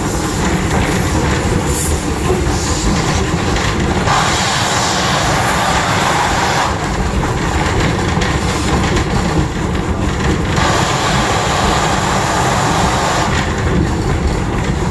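Passenger coach rolling on the rails behind a steam locomotive: a steady rumble and clatter of wheels on track. Twice, for a few seconds each, a louder rushing noise comes in over it.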